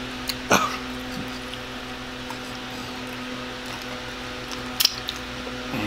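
A man chewing fried chicken with his mouth close to the microphone: a few short wet clicks and smacks, about half a second in and again near the end. Under it runs a steady low hum.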